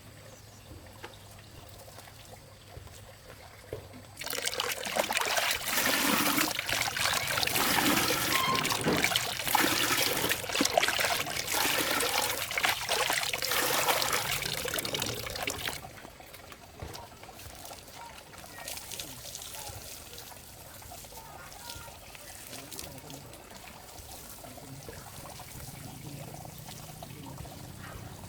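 Water pouring and splashing, much louder for about twelve seconds from around four seconds in, then settling to a quieter trickle.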